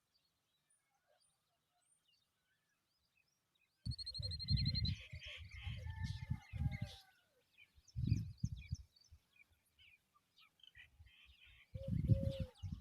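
Near silence at first. Then, a little under four seconds in, common babblers start chirping and calling, with a quick rattling trill and short falling notes. Low rumbling bumps of wind or handling noise sit under the calls.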